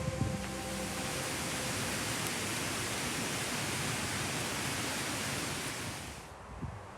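A steady, even hiss of noise with no tone in it, fading away about six seconds in.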